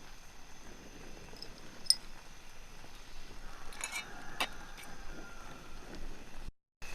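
A few light clinks and taps of small hard objects, one sharp click about two seconds in and a cluster around four seconds, over a faint steady high tone. The sound drops out completely for a moment near the end.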